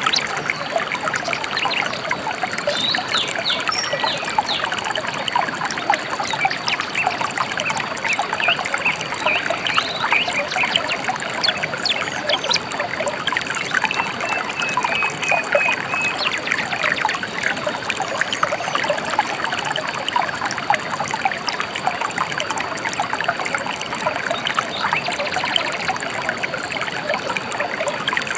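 A shallow river trickling and babbling steadily over stones, with a few faint bird chirps above the water.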